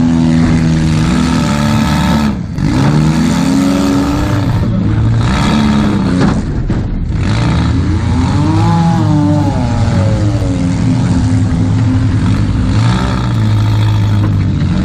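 Demolition derby Toyota Camry's engine heard from inside the stripped cabin, running hard under throttle; its pitch drops and rises again about two seconds in, and climbs and falls once more about eight seconds in.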